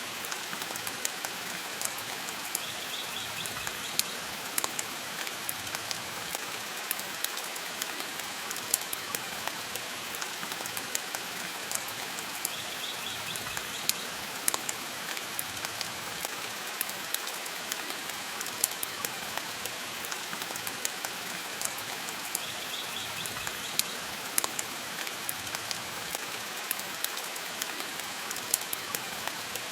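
Steady rain falling, mixed with a wood fire crackling, with sharp pops scattered irregularly throughout.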